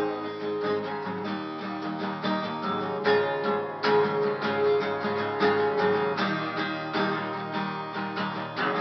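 Acoustic guitar strummed in a steady rhythm, an instrumental break in a rock-blues song with no singing.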